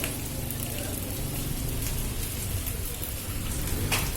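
Heavy rain and strong gusting wind of a storm, with a steady rush and a low rumble, and a brief sharp knock near the end.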